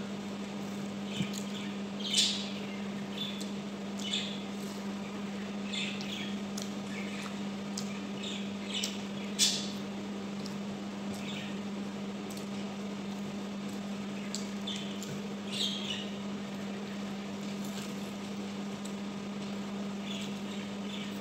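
Close-up eating sounds: lip smacks and wet chewing clicks scattered irregularly, a couple sharper smacks about two and nine seconds in, as rice and fried tuna balls are eaten by hand. A steady low hum runs underneath.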